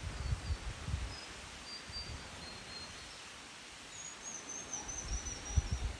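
A small bird's thin, high warbling call about four seconds in, with fainter high chirps earlier, over a steady outdoor hiss. Low thumps on the microphone come at the start and again near the end.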